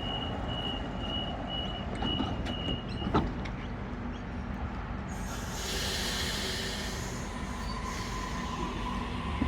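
Electric passenger train at a station platform. A high beep repeats for the first three seconds, a hiss of air starts about five seconds in, and a motor whine begins to rise near the end.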